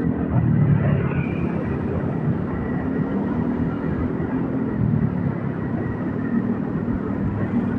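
Motorcycle engine running steadily while riding, mixed with road noise.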